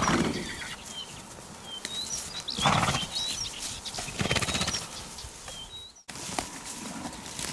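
Small birds chirping repeatedly with short, curved high calls, with two louder rough bursts of noise near the middle. The sound drops out briefly about six seconds in and then resumes with a changed background.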